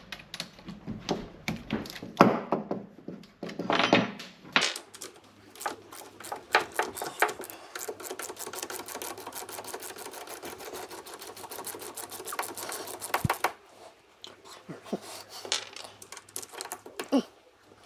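Hand tools clicking and clinking against the engine parts, with a long run of rapid clicks from about five to thirteen seconds in.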